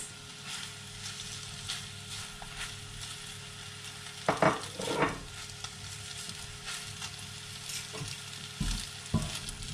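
Leftover beef and scrambled egg sizzling in a frying pan as they are stirred with a spatula. A couple of louder strokes come about halfway and near the end.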